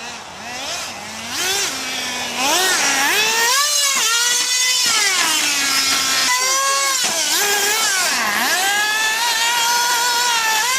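Small nitro RC car engines running at high revs, their high-pitched whine rising and falling over and over with the throttle as the cars drive past, louder from about two seconds in.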